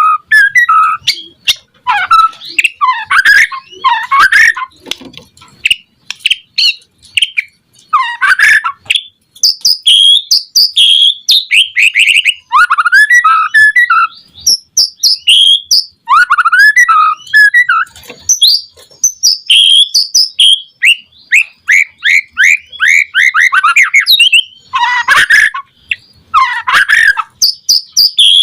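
White-rumped shama (murai batu) singing a loud, rapid, varied song of whistled and chattering phrases, one after another with only short pauses.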